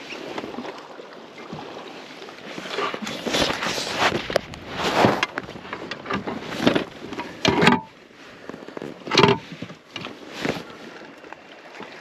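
Irregular handling noise in a fishing kayak: scattered knocks, rustles and splashy bursts.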